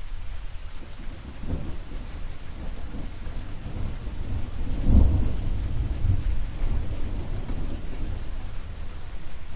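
Steady rain with a long, deep roll of thunder that builds about a second and a half in, is loudest around the middle, then rumbles on more softly.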